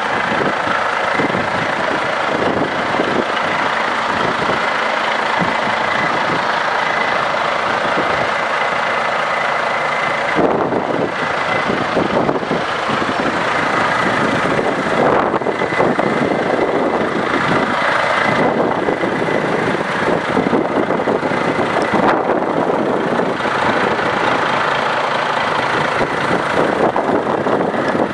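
Volvo FH460 truck's diesel engine running steadily at idle.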